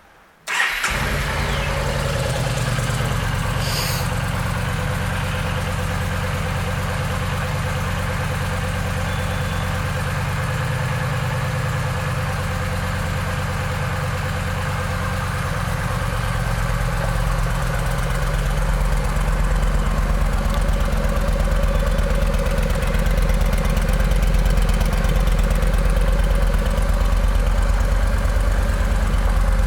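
Yamaha V Star 950's air-cooled V-twin engine starting about half a second in and settling into a steady idle, growing somewhat louder and deeper in the second half.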